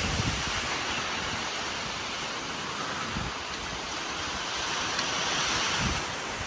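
Strong thunderstorm wind blowing hard and steadily, with gusts buffeting the microphone in low rumbles near the start, about halfway and near the end.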